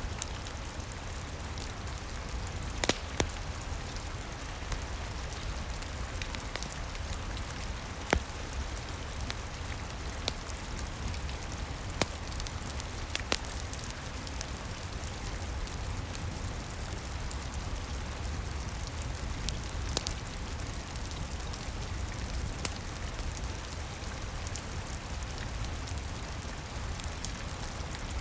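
Steady rain with a low rumble underneath, and a crackling wood fire giving a few scattered sharp pops, the loudest about three and eight seconds in.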